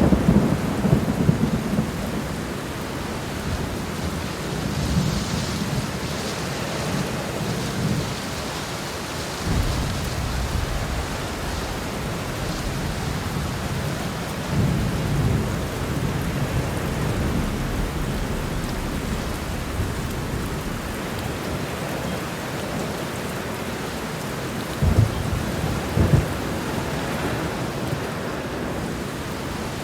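Heavy rain falling steadily, with several low rolls of thunder rumbling through it. Near the end come two sharper, louder thunderclaps about a second apart.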